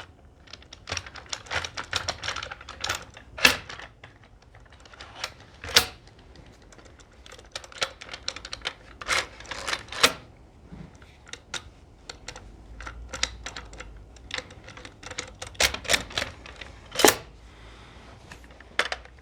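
Woodworking clamps being loosened and taken off a glued-up blank: irregular clicking and rattling of clamp screws and jaws, with a few louder knocks.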